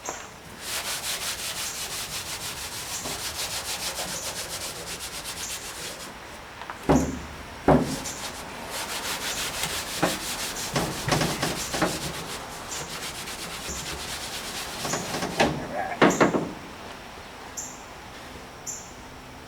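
Scotch-Brite pad scrubbing the painted steel body of a 1959 VW single cab truck in quick back-and-forth strokes, working through the top paint to uncover the older blue paint beneath. A few sharp knocks break in around the middle, and the scrubbing stops a few seconds before the end.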